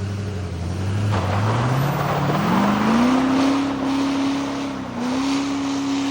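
LBZ Duramax 6.6-litre V8 turbo-diesel revving up hard and holding at high rpm, with a brief dip about five seconds in before it climbs back up.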